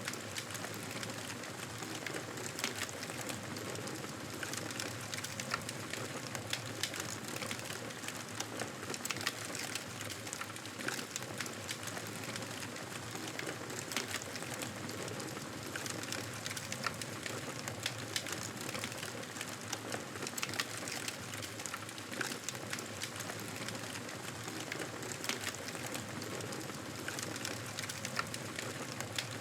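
Wood fire crackling in a fireplace: a steady hiss dotted with frequent small pops and snaps.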